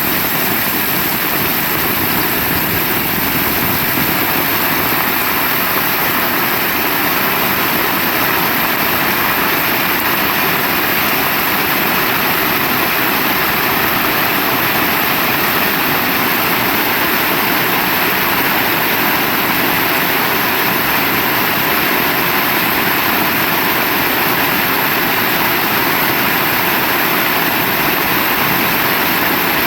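Heavy rain falling steadily: a loud, even hiss that does not let up.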